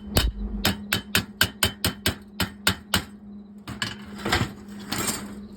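A quick series of sharp knocks, about four a second for roughly three seconds, then some scraping or rustling, over a steady low hum.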